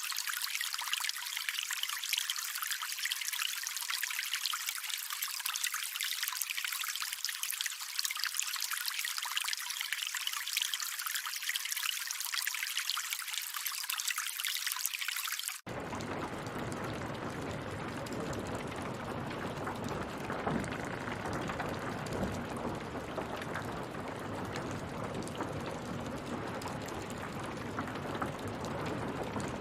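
Steady trickling, splashing water, high and thin, switching suddenly about halfway through to a fuller, deeper steady rush of water.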